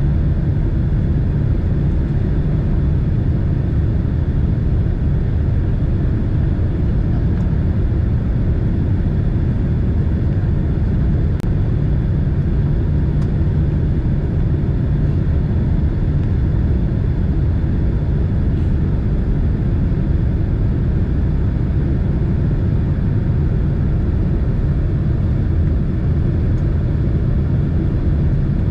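Boeing 767 passenger cabin noise: a steady, loud low rumble of the airliner's engines and airflow heard from a seat inside the cabin.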